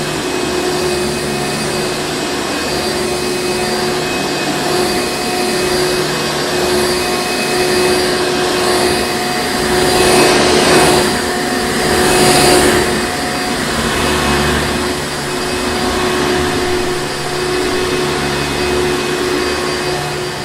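Hoover Encore Supreme vacuum cleaner running continuously with a steady motor hum and rush of air, swelling louder twice around the middle.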